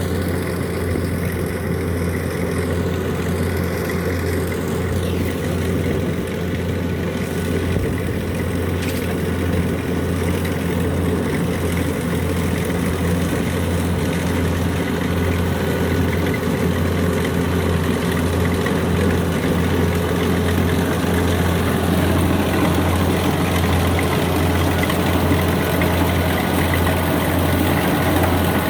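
Combine harvester's diesel engine running steadily, a deep drone that grows slightly louder toward the end.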